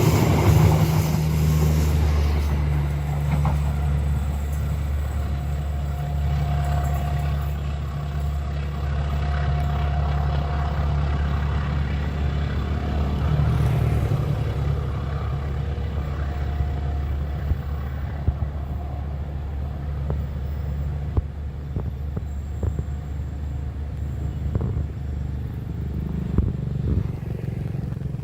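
A steady low engine rumble. Over the first two seconds, the fading noise of a passing train lies on top of it.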